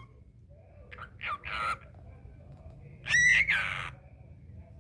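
Cockatiel calling: two short bouts of shrill, squawky chirps, the first about a second in and the second about three seconds in.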